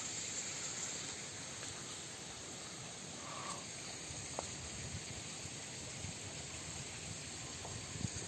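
Steady outdoor background hiss with a faint, even high-pitched drone, and one short faint sound a little over three seconds in.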